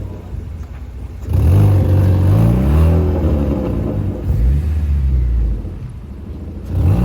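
A car engine revving in repeated bursts, its pitch climbing and falling back each time, the first and loudest rev starting about a second in.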